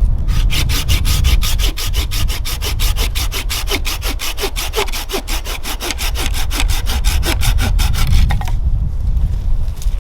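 Hand saw cutting through wood in quick, even back-and-forth strokes, which stop about eight and a half seconds in. A low wind rumble on the microphone runs underneath.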